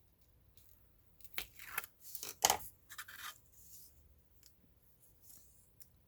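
A quick, irregular run of short rustles and scrapes from hands working satin ribbon and tear-and-tape onto a cardstock book, loudest about two and a half seconds in.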